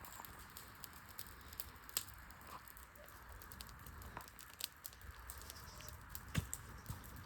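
Wood fire crackling with scattered small pops and snaps, two sharper snaps about two seconds in and near the end.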